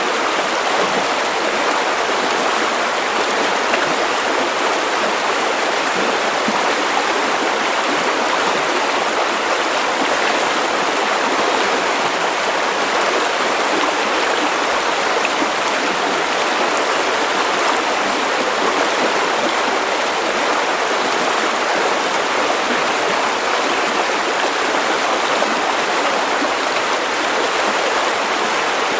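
River water running over stones, a steady, even rushing and babbling with no let-up.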